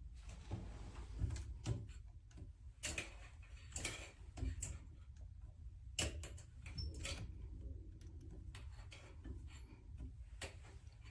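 Irregular clicks and knocks of a handheld shower head and its adjustable holder being handled and repositioned.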